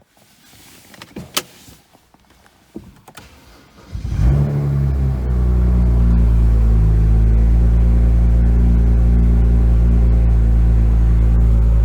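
BMW N54 3.0-litre twin-turbo straight-six being started: a few faint clicks first, then the engine catches with a short loud burst about four seconds in and settles into a steady idle.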